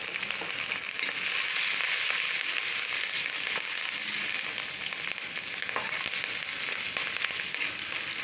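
Garlic, onion and green chillies sizzling in hot mustard oil in a metal kadai, a steady frying hiss. A metal spatula scrapes the pan now and then as they are stirred.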